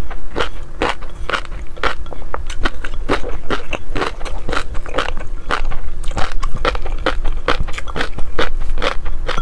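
A person chewing crunchy food close to the microphone, in a quick steady run of crisp crunches, about three a second, over a low steady hum.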